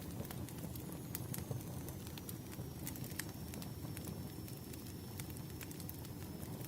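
Wood fire crackling: irregular sharp pops and snaps from burning firewood over a steady low rumble of the flames.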